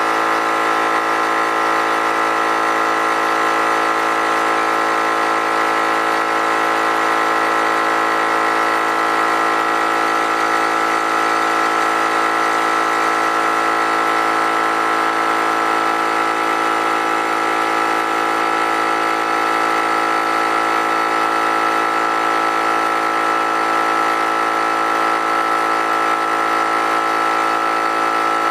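Harbor Freight air compressor running steadily, its motor and pump building tank pressure toward the cut-out pressure set on its pressure switch.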